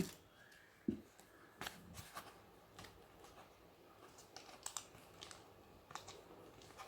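Faint scattered clicks and rustles of small plastic parts and a foam airframe being handled, as the rear landing gear is fitted onto a foam RC plane.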